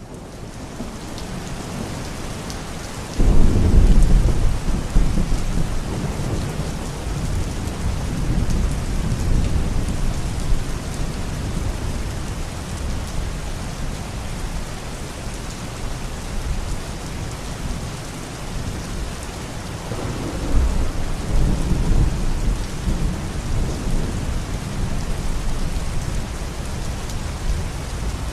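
Steady rain falling, with a sudden deep rumble of thunder about three seconds in that rolls on and fades over several seconds, and a second, softer rumble of thunder later on.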